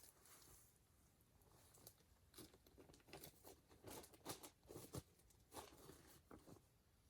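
Wood campfire crackling faintly, with irregular snaps and pops that come thickest in the middle few seconds.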